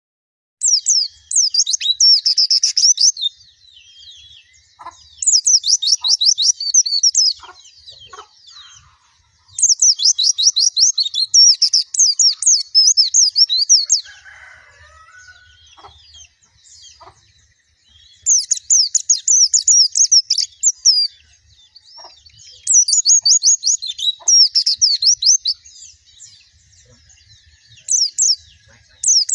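White-eye (pleci) singing: fast, high twittering phrases of rapidly repeated chirps, each lasting two to four seconds, about six times with short pauses between.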